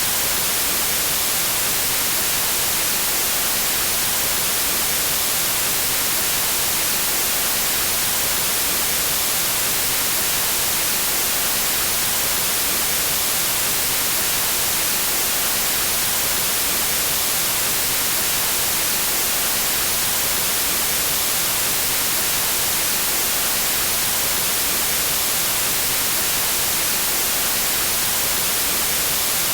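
Steady, unbroken white noise: an even hiss spread across all pitches, brightest in the treble, with no change in level.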